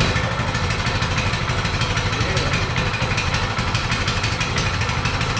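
Coleman mini bike's 200cc single-cylinder four-stroke engine running steadily on choke, just after its first-ever start.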